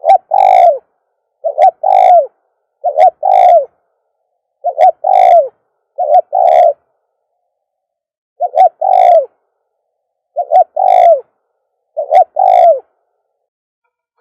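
Spotted dove cooing: eight repeated phrases, each a short note followed by a longer coo, roughly every one and a half seconds, with a longer pause about halfway through.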